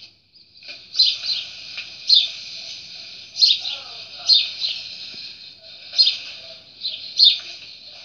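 Small birds chirping and twittering steadily, with sharp falling chirps standing out about once a second.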